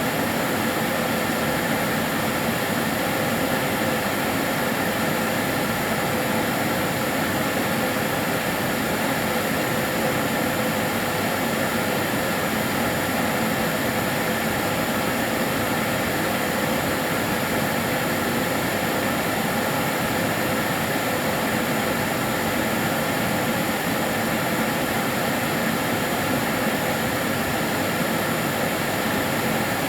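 Karcher DS 6 Premium water-filter vacuum cleaner running steadily: an even rushing motor-and-airflow noise with a faint constant hum and whine in it, unchanging throughout.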